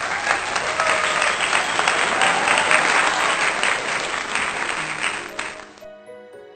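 Crowd applause, a dense clatter of clapping that cuts off suddenly near the end, as a gentle melody of plucked or keyed notes begins.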